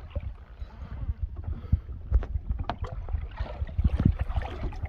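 Sounds of a small boat at sea: a low rumble with irregular knocks and thuds, with wind buffeting the microphone.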